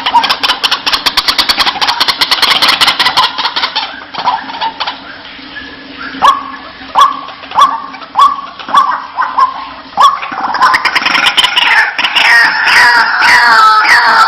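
White-breasted waterhen calling: a rapid chattering run, then separate falling 'wak' notes about twice a second from about six seconds in, then a louder, denser run of overlapping calls from about ten seconds in.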